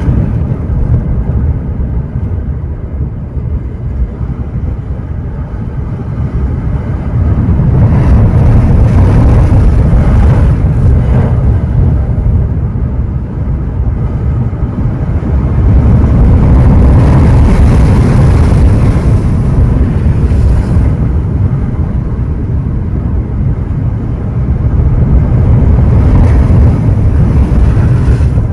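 Ocean surf breaking and washing on the shore: a continuous deep rumbling wash that swells louder about eight seconds in, again for several seconds in the middle, and once more near the end.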